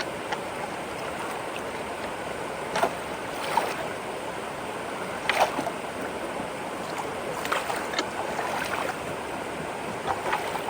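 Water rushing steadily into a culvert through a whirlpool at its inlet, an even wash of water noise with a few short, sharp sounds over it.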